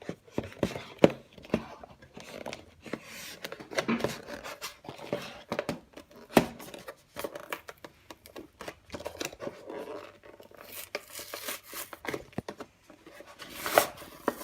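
Toy box packaging being opened by hand: irregular clicks, knocks and rustling, with a louder rustling burst near the end.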